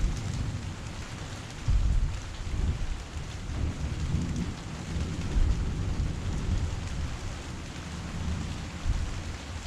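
Heavy rain falling steadily, with a deep, uneven rumble underneath that swells about two seconds in.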